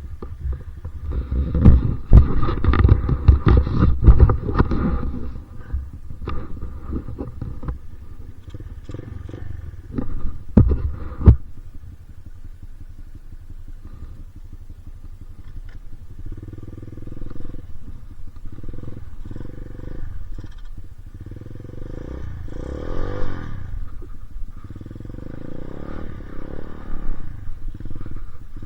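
Dirt bike engine running, revving up and back down once about 23 seconds in. Heavy rumbling and sharp knocks fill the first few seconds, with two more knocks around ten seconds in.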